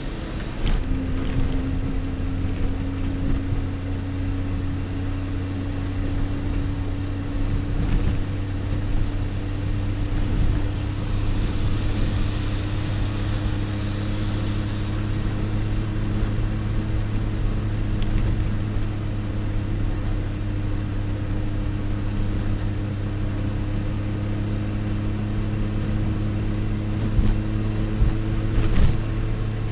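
DKW-Vemag Belcar's three-cylinder two-stroke engine running at a steady cruise, heard from inside the cabin, its pitch creeping slightly higher. There are a couple of short knocks near the end.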